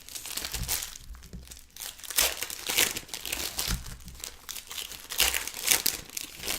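Plastic foil wrappers of Panini Excalibur basketball card packs crinkling as they are torn open and handled, a string of irregular crackles and rustles.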